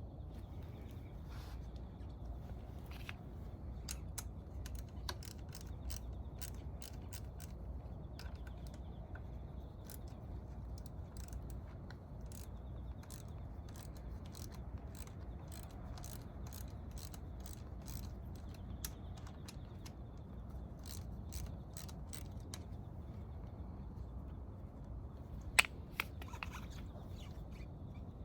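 A ratchet wrench clicking in quick runs as fasteners are turned during the engine's teardown, with one sharp, loud click near the end.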